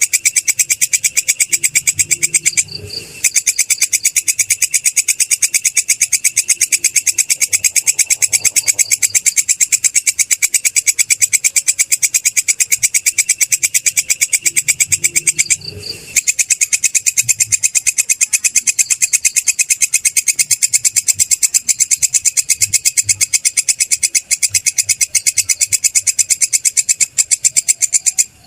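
Belalang kecek (kerik) insect stridulating: a loud, high-pitched, fast even train of chirping pulses, breaking off briefly twice.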